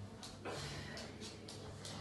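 Faint movement sounds of a person doing sit-ups: a few short, hiss-like strokes about every half second, over a low steady hum.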